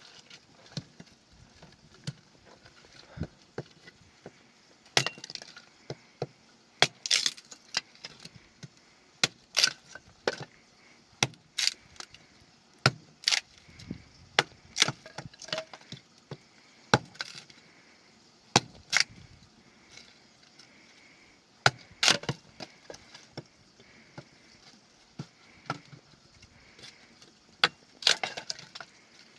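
Irregular sharp wooden cracks and knocks, sometimes single and sometimes in quick clusters of several, with short pauses between, as of wood being snapped or struck by hand.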